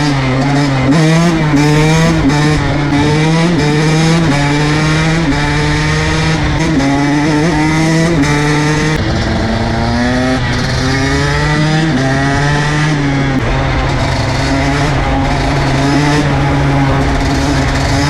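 KTM SX 125 two-stroke motocross engine accelerating hard through the gears, its pitch climbing and dropping back at each shift several times, then running steadier in the second half.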